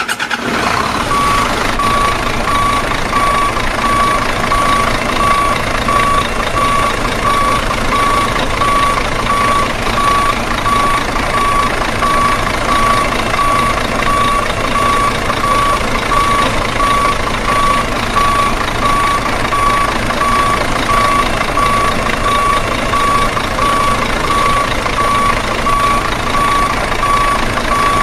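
Heavy-equipment truck's reversing alarm beeping at one steady pitch in an even rhythm, over the truck's running engine; the beeps start about a second in.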